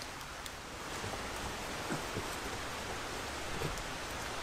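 Steady rain falling on the surrounding woodland, an even hiss with scattered faint drop ticks.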